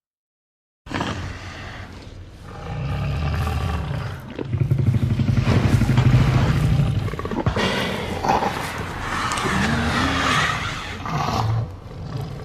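Tyrannosaurus roar sound effect: a deep rumbling growl that starts abruptly about a second in, swells into a long loud roar, and trails off in shorter, rising-and-falling cries.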